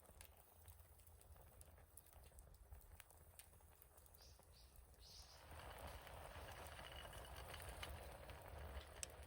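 Faint ticking and crackling from a wood fire in a fire pit, with a soft hiss that swells about five seconds in.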